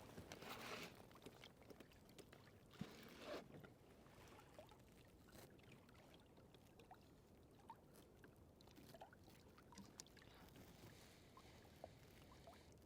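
Near silence: faint water movement around a kayak, with scattered small clicks and a couple of soft rustles, the loudest near the start and about three seconds in.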